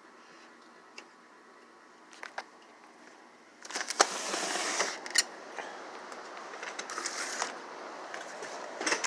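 Quiet with a few faint clicks, then about three and a half seconds in strong gusty wind starts buffeting the microphone, with a couple of sharp knocks among the gusts.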